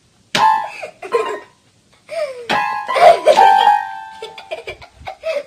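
Small toy electronic keyboard sounding notes as a cat steps and pounces on its keys: several electronic tones that start abruptly, some held for about a second, with short gaps between them.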